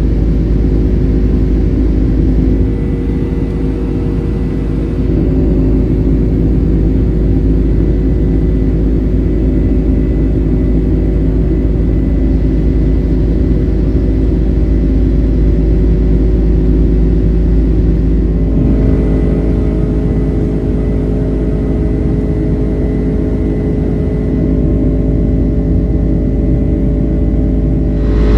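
Steady cabin drone of a Boeing 767-300: General Electric CF6 engines and rushing air, a deep rumble with a hum of several steady tones. The tones shift slightly about two-thirds of the way through.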